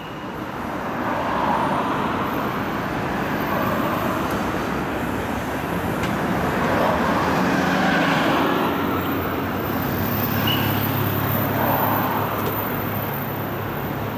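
Street traffic noise: cars and buses passing in slow swells. A heavy engine hums steadily at idle from about ten seconds in.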